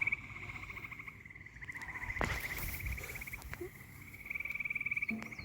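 A frog's rapid pulsed trill at a steady pitch, going on in long runs that swell and fade, with a sharp knock about two seconds in.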